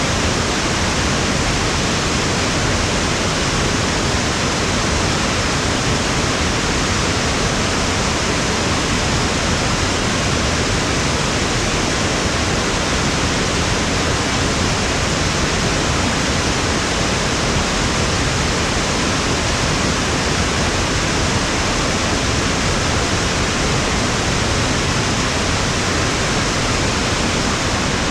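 Waterfall rushing: a loud, steady wash of falling water with no change.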